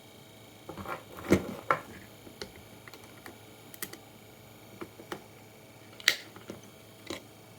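Irregular clicks and knocks of small hard parts and tools being handled during a computer power supply teardown, about a dozen in all, the loudest about a second and a half in and again near six seconds.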